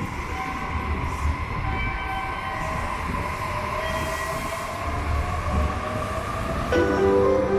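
Limited express train pulling out of the station: a steady low rumble with held motor tones above it. Near the end a melody of several held notes starts.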